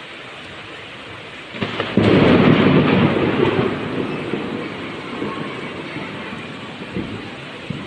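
Steady rainfall with a clap of thunder about two seconds in, rumbling loudly for a couple of seconds and then slowly fading.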